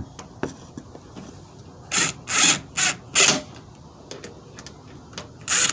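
Four short scraping noises about two to three and a half seconds in, and one more near the end: tools and parts being handled while working inside a truck door.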